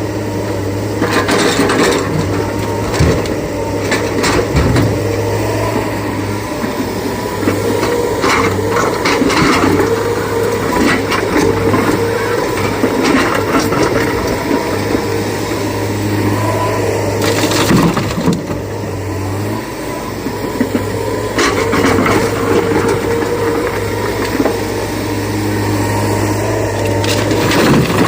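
Heavy diesel excavator engine running steadily under load, with repeated clattering crashes and scraping of rock and bucket steel as the machine digs and loads quarry material.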